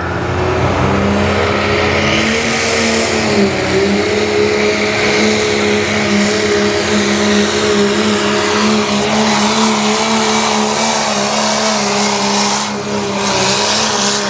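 Limited Pro diesel four-wheel-drive pickup truck making a full-throttle pull with a sled, its engine held at high, steady revs under load. The pitch dips briefly about three seconds in and the level drops for a moment near the end.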